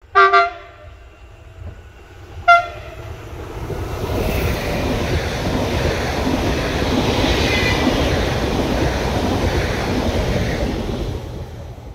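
Train horn sounding two blasts, the first about a second long and the second brief, as a passenger train approaches. Then the steady noise of the train running past on the rails, building up and fading away near the end.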